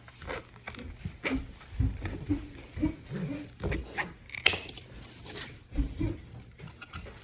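Sharp clicks and snips of thin plastic kit parts being cut and handled. A dog gives short whines and pants throughout.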